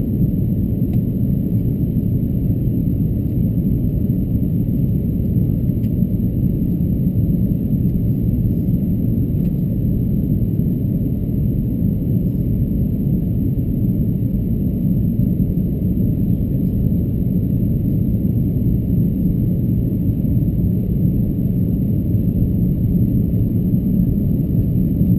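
Steady low cabin rumble of an Airbus A330-223 in flight: airflow and engine drone heard from inside the passenger cabin.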